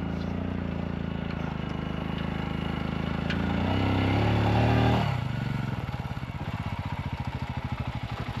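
Royal Enfield Himalayan's single-cylinder engine running on the move, growing louder for about five seconds, then dropping sharply as the throttle closes to a low, evenly pulsing beat at low revs.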